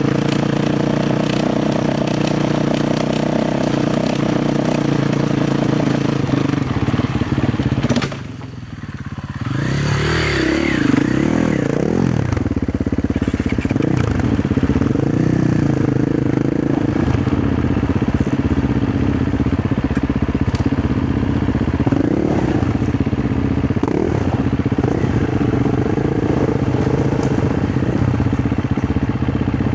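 KTM 350 XC-F dirt bike's single-cylinder four-stroke engine running under varying throttle over rocky ground, with scattered knocks and scrapes. About eight seconds in, the engine note drops away briefly, then revs rise and fall as it picks back up.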